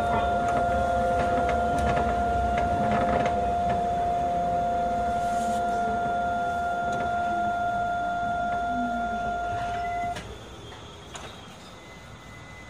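Astram Line 6000-series rubber-tyred automated guideway train slowing down: the motor whine falls slowly in pitch under a steady electric tone. About ten seconds in the tone cuts off and the sound drops to a much quieter hum as the train comes to a stop.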